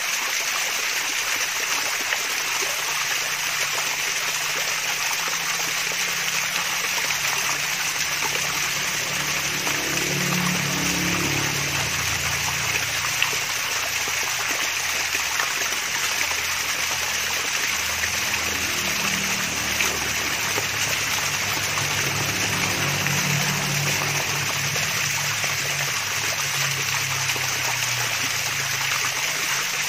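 Water running and trickling over a small waterfall: a steady, unbroken babbling rush.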